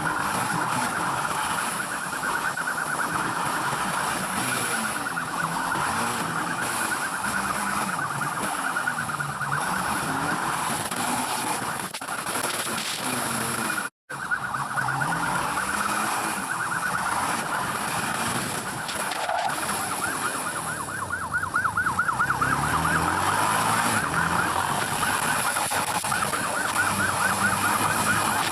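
Police motorcycle siren wailing and warbling over the bike's engine, which revs up and down through the chase. The sound drops out briefly about halfway through.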